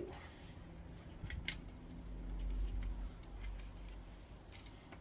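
A few small sharp metal clicks and taps, with a low handling rumble in the middle, as a small steel piece is worked loose from an aluminium part of a stripped induction hob.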